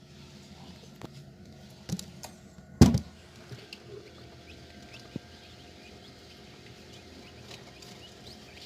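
Faint, scattered cheeping of chukar partridge chicks, broken by a few sharp knocks, the loudest just before three seconds in.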